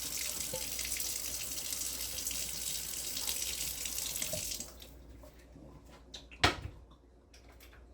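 Water running steadily, which stops abruptly about two-thirds of the way through. About a second and a half later comes one sharp knock, followed by a few faint clicks.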